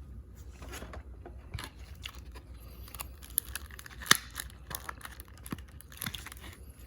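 Waxed-paper wrapper of a trading-card pack crinkling and crackling between the fingers as it is picked at by hand to open it, in scattered sharp crackles with one louder snap about four seconds in.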